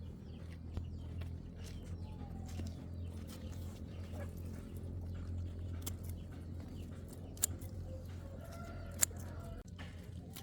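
Chickens clucking now and then over a steady low hum, with two sharp clicks near the end.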